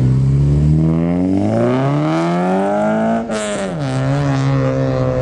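A vehicle engine revving hard for a burnout. The revs climb for about three seconds, then drop sharply with a brief rasp and settle to a steady lower speed.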